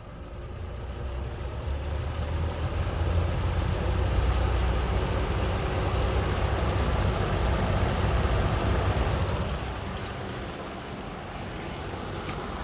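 Vintage Eskimo three-bladed box fan running on its high speed, a low motor hum with a steady rush of air. It grows louder over the first three seconds, then runs evenly.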